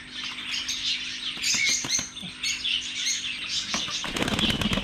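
Many small aviary birds chirping and twittering, and near the end a quick run of wing flapping with splashing as a bird bathes in the water.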